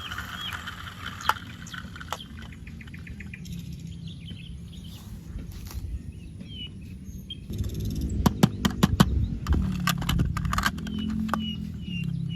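Short bird chirps now and then over a low steady hum, with a quick run of sharp clicks and taps about eight seconds in.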